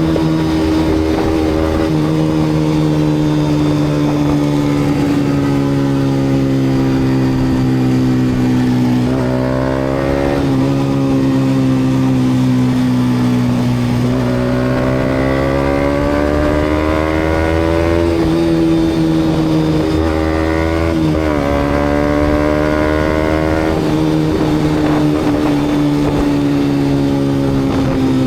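Yamaha MT-125's single-cylinder four-stroke engine running through an aftermarket GPR exhaust while riding. Its pitch sags slowly, climbs again partway through, and sweeps quickly up and down twice, about ten seconds in and again about twenty seconds in.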